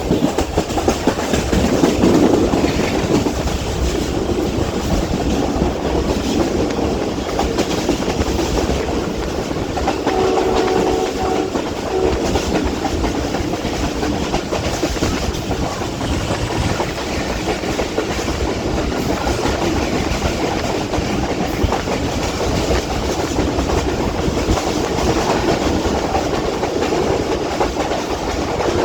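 Passenger train running at speed, with a steady rumble and the clickety-clack of the wheels over the rail joints. A brief tone of several pitches together sounds about ten seconds in.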